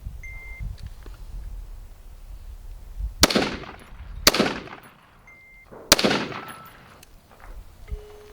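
Three gunshots, the second about a second after the first and the third about a second and a half later, each followed by a short fading echo.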